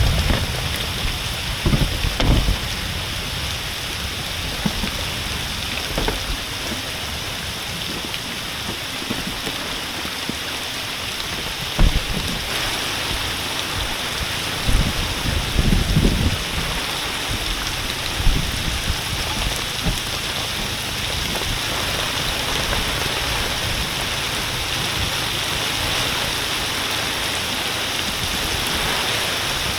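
Heavy rain falling steadily in a continuous hiss, with a few short low thumps about two, twelve and sixteen seconds in.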